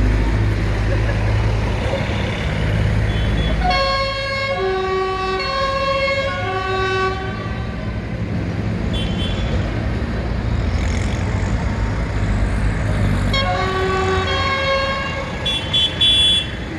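A multi-note musical vehicle horn plays a short tune, about four seconds in and again near the end, over the steady low rumble of passing tractor engines.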